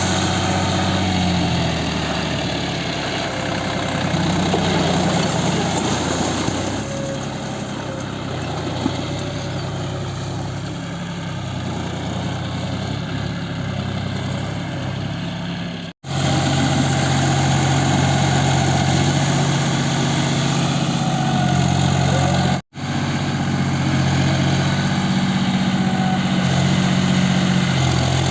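John Deere 5050D tractor's three-cylinder diesel engine running steadily. The sound cuts out briefly twice.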